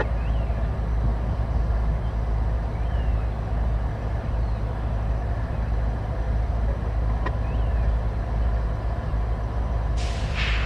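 Freight train passing with a steady low rumble. A short hiss comes in near the end.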